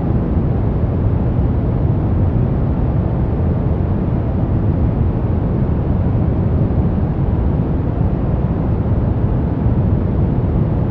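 Steady brown noise: a deep, even rushing hiss with most of its energy in the low end, unchanging throughout.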